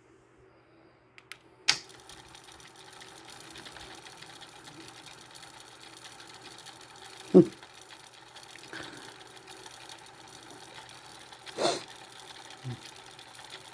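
Pioneer CT-F900 cassette deck's tape transport clicking into motion, then running with a steady mechanical whir, its idler pulley freshly given more grip with double-sided tape.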